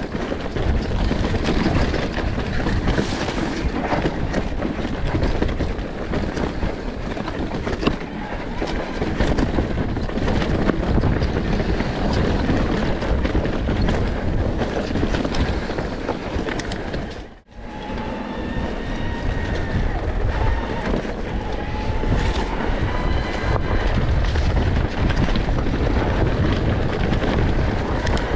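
Enduro motorcycle engine running while riding, under a heavy rumble of wind on the microphone. The sound drops out briefly about two-thirds of the way through; after that the engine's pitch can be heard rising and falling with the throttle.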